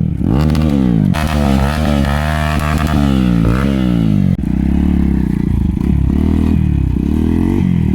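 Motorcycle engine running under load, its pitch rising and falling again and again as the throttle is worked, with a brief dip about four and a half seconds in.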